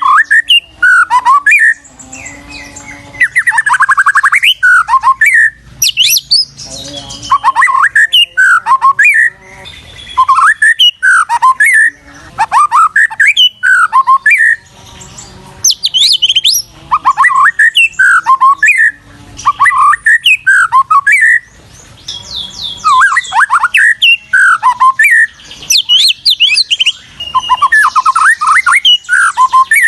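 White-rumped shama (murai batu) singing loudly in repeated bursts of fast, sliding whistled notes mixed with harsher chattering, each phrase a second or two long with short pauses between.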